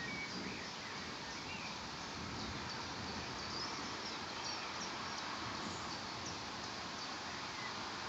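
Scattered short bird chirps over a steady outdoor hiss.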